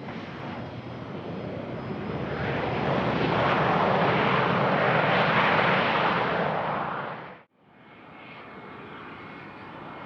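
Business jet engines running, the noise swelling to its loudest over a few seconds as the jet passes on the runway. It cuts off suddenly about seven and a half seconds in, then quieter engine noise resumes.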